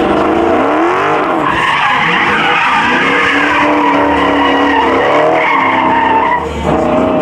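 Car engine revving hard, its pitch swinging up and down, with tires squealing and skidding.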